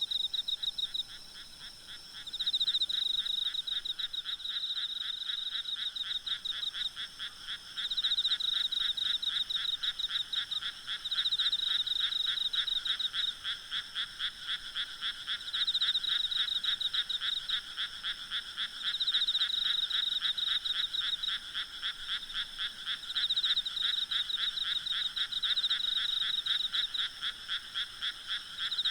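Night chorus of frogs croaking in rapid pulsed trains that swell every few seconds, over a steady high trilling of insects.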